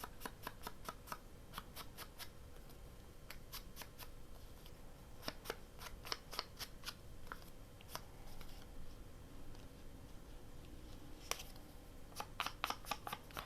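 Scissors snipping through paper: runs of faint short clicks with pauses between them, busiest near the start, in the middle and near the end.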